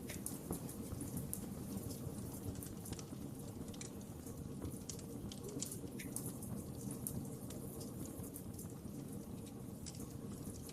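Wood fire crackling steadily: a low rush of burning with frequent small, irregular pops and snaps.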